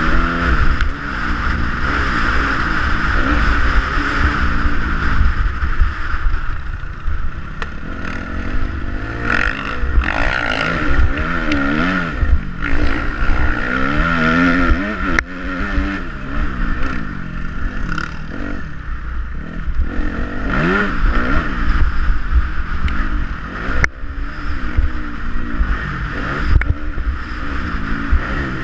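Motocross bike engine being ridden, revving up and down again and again as the rider works the throttle and gears, with heavy wind rumble on the microphone.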